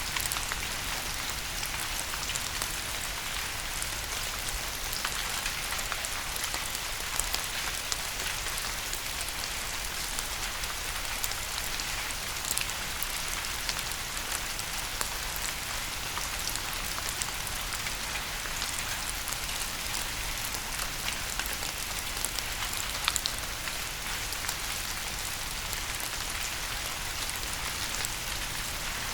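Steady rain falling on a surface: a constant hiss with many individual drops ticking through it.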